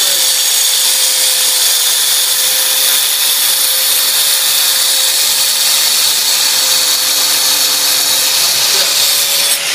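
Power saw cutting through travertine with a dust-extraction vacuum attached: a steady, loud hissing noise over a steady hum, easing slightly near the end.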